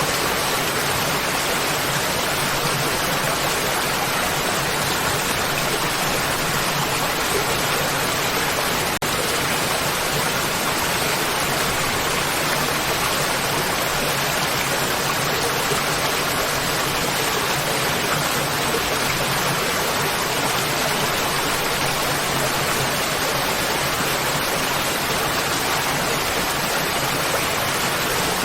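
Waterfall: a steady, even rush of falling water, with one brief dip about nine seconds in.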